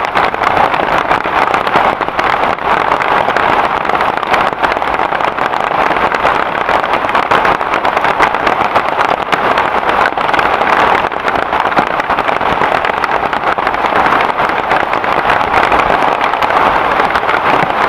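Heavy rain falling steadily, a continuous even downpour.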